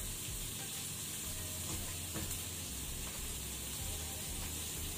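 Prawns sizzling steadily in a little oil in a pan while being stirred with a spatula, with a few faint ticks of the spatula against the pan.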